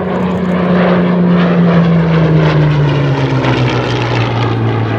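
Hawker Hurricane's Rolls-Royce Merlin V12 engine passing close by in a fly-past. It grows loud, then its pitch drops steadily as the aircraft goes past and away.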